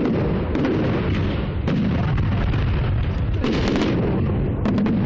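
Fireworks going off: a run of sharp cracks and pops, thickest about three and a half seconds in, over a steady low rumble.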